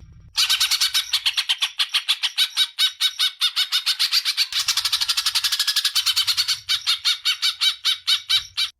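Recorded songbird giving a harsh, rapid chattering call: short, rough notes repeated about seven times a second without a break. This is a 'kasaran' training call used to teach captive songbirds rough song elements.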